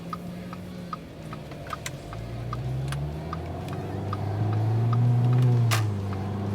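Audi A4 2.0T turbocharged four-cylinder through a stainless turbo-back dual exhaust with high-flow cat, accelerating: the engine note climbs and grows louder, peaks about five seconds in, then drops away. A sharp click comes just before the drop, and light ticks recur throughout.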